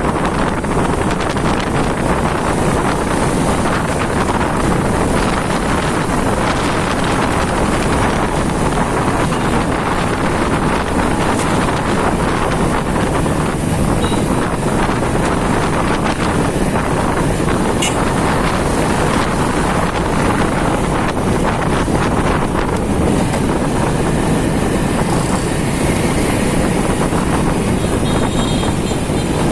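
Steady wind noise on the microphone of a moving motorcycle, with the motorcycle and street traffic running beneath it.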